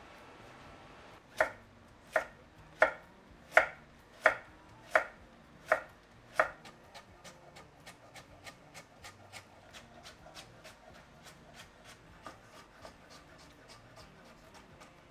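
Kitchen knife chopping burdock root on a cutting board: eight loud, evenly spaced strokes, then quicker, lighter cuts.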